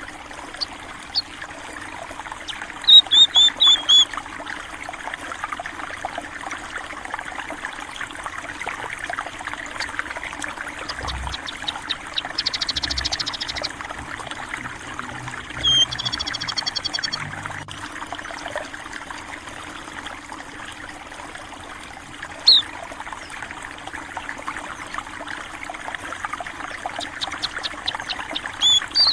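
Steady trickle of shallow flowing water, with small birds, munias (burung pipit), chirping now and then above it: a quick run of short falling chirps about three seconds in, two short buzzy trills near the middle, a single chirp a little later and a few more chirps near the end.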